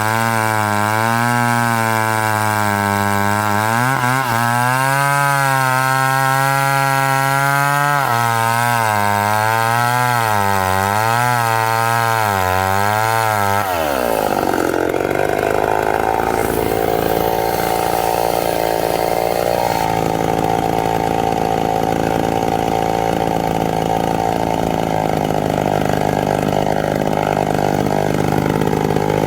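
Gas chainsaw cutting pine wood, its engine at high revs with the pitch wavering up and down as it works through the cut. About halfway the pitch drops sharply, and the saw runs lower and rougher for the rest.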